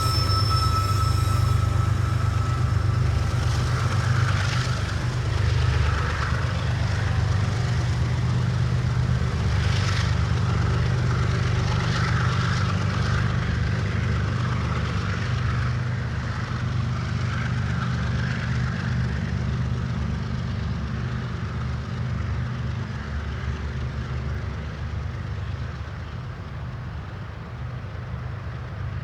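A train rolling past with a steady low rumble that slowly fades away. A high-pitched wheel squeal cuts off about a second and a half in.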